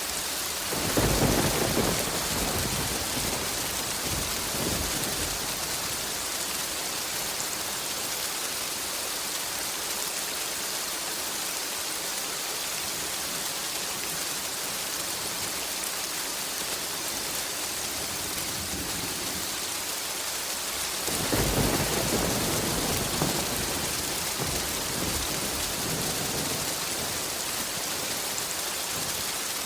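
Steady heavy rain with two rolls of thunder: a rumble about a second in that fades over a few seconds, and another about twenty-one seconds in that dies away slowly.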